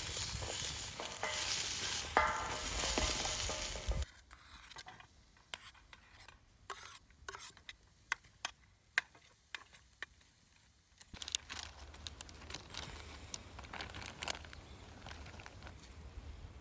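Food sizzling in a frying pan over a campfire while it is stirred. About four seconds in the sizzle cuts off suddenly, leaving faint scattered clicks and crackles. A quieter steady hiss returns later.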